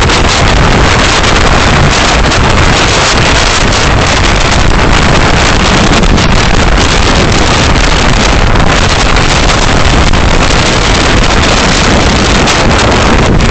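Loud, steady road and wind noise from a moving car, picked up by a dashcam microphone, with no distinct events.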